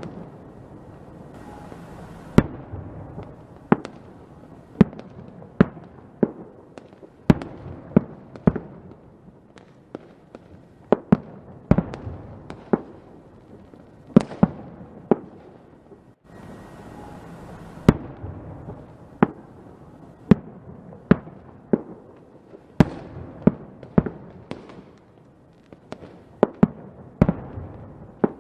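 Fireworks going off: a long string of sharp bangs at irregular spacing, roughly one or two a second, over a low background crackle. There is a momentary drop-out a little past halfway.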